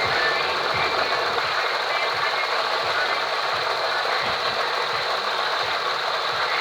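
Volkswagen Golf's BLG engine, a 1.4 TSI twin-charged petrol four-cylinder, running steadily, with a steady high-pitched whine along with it.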